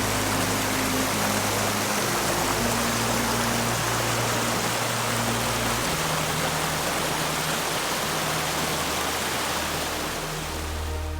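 Steady rushing water of a woodland stream, with soft background music of slow held low chords underneath; the water fades out at the very end.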